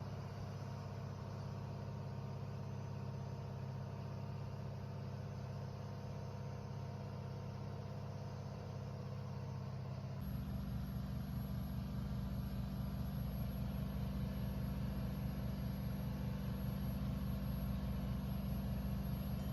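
Freshly overhauled MD630KUH inboard diesel engine of a 39-foot fishing boat running steadily. About ten seconds in it steps up to a louder, deeper, more rumbling note.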